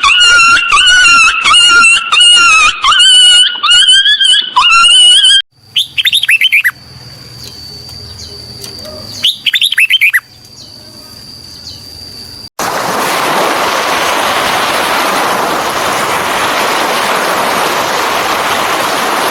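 Bird calls: a loud warbling call repeated over and over for about five seconds, then a few short falling chirps over a thin steady whistle. From about two-thirds of the way in, the sound cuts to an even, hiss-like noise.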